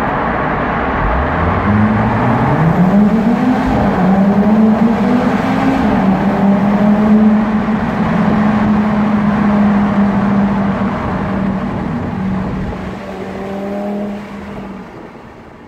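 Audi TT RS Plus's turbocharged 2.5-litre inline-five engine under hard acceleration, heard from inside the car: its note climbs in pitch, dips briefly twice as it runs up through the gears, then holds a steady high-revving note at about 5,000 rpm. The sound fades out near the end.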